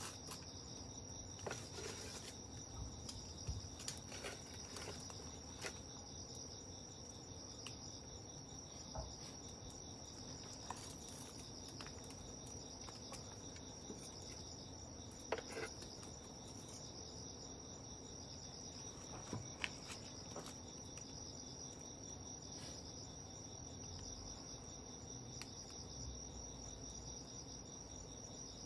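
Insects chirping in a steady high-pitched trill, with a few sharp pops and crackles from a wood campfire scattered through.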